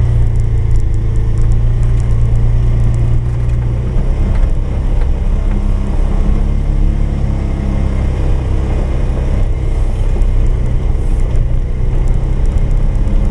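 Polaris 570 ATV's single-cylinder engine running steadily under load while pushing a snowplow, its pitch shifting a little about four seconds in as the throttle changes.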